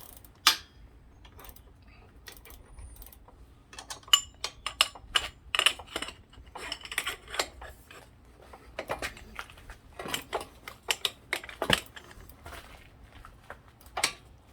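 Irregular metallic clicks and clinks of tools and small metal parts handled while working on bicycle pedals, coming in clusters with short pauses.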